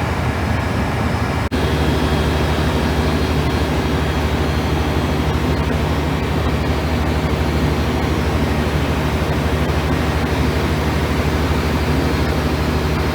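12-cylinder Cummins diesel engine of an 800 kW generator set running steadily at its rated 1500 rpm working speed, with a brief break in the sound about a second and a half in.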